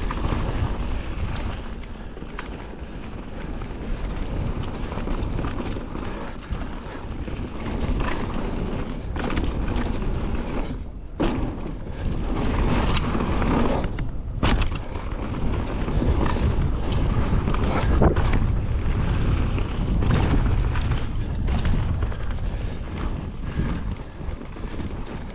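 Wind buffeting a mountain biker's action-camera microphone with a steady low rumble, mixed with the rattle and clatter of the bike running fast over rough downhill trail.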